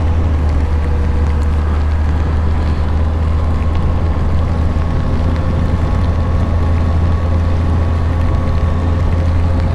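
2001 Yamaha FZS1000's inline-four engine running at a steady cruise with a deep drone, with wind and road noise rushing over the camera.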